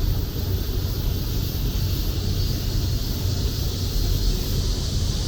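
Cicadas buzzing steadily, high-pitched, over a louder low, steady rumble.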